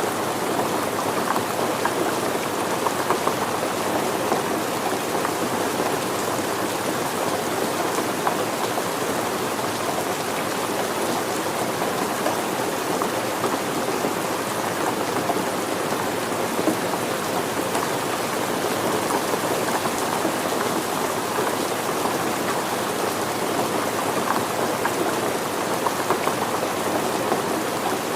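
Steady rain falling, an even hiss of many drops striking surfaces, with no change in strength.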